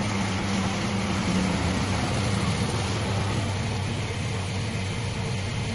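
Cub Cadet snowblower engine running steadily as it warms up, now starting and running after troubleshooting.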